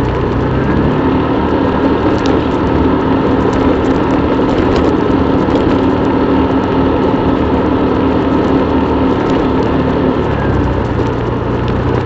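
Motorbike engine running under way, with steady road and wind noise. The engine note rises about a second in, holds, and drops back near the end.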